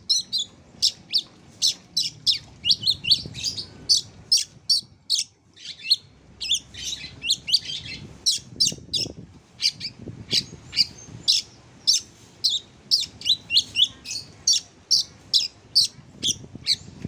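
Oriental magpie-robin (kacer) song: a rapid series of short, sharp, high chirps, about two to three a second, thinning briefly about a third of the way through.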